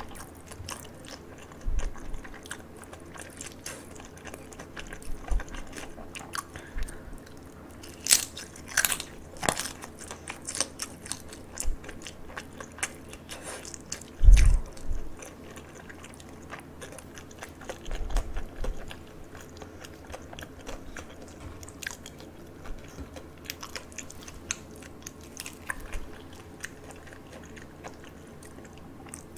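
Close-miked chewing and biting of crispy pan-fried dumplings: many short crunches and mouth clicks, with a cluster of louder crunches a little before halfway. About halfway through there is a single dull thump, the loudest sound.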